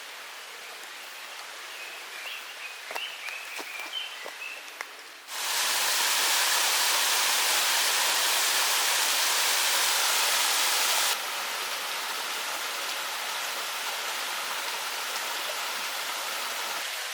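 Mountain stream water rushing, a steady hiss that jumps abruptly much louder about five seconds in and drops back partway about six seconds later. Before the jump the water is fainter, with a few light clicks and brief high chirps.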